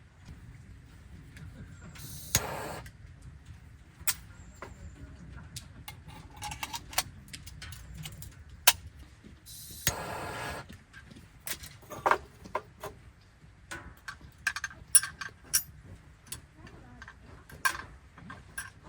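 Scattered clicks, taps and knocks of small objects being handled, with two brief hissing noises about two seconds and ten seconds in.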